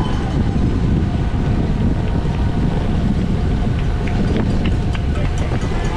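Wind rushing and buffeting over the microphone of a racing bicycle's onboard camera. There are a few faint clicks near the middle.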